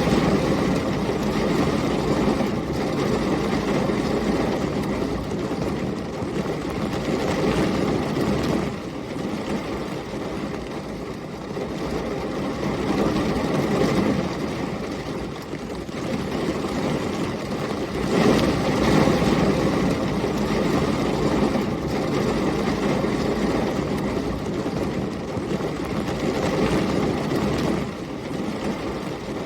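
Heavy rain with storm wind, a steady deep rush that swells and eases in gusts every few seconds.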